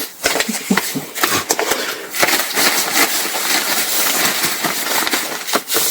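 Ripstop nylon paraglider fabric rustling and crinkling with many small crackles as it is handled and wiped down with water.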